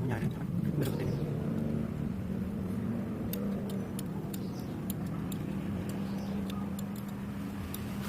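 Honda Supra GTR's single-cylinder four-stroke engine idling steadily through a Proliner aftermarket exhaust, with scattered small clicks and taps as the dB killer is being fitted into the exhaust.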